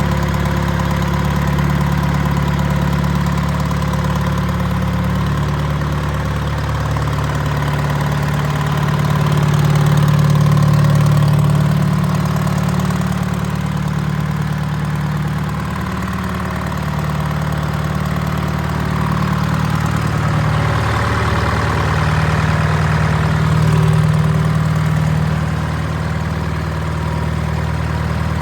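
Detroit Diesel 4-53, a two-stroke four-cylinder diesel engine, idling steadily, growing slightly louder about ten seconds in and again later.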